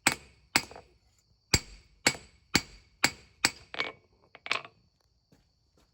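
Hammer blows on hot spring steel on an anvil, drawing out a knife's tang: about nine sharp ringing strikes at roughly two a second, stopping about four and a half seconds in.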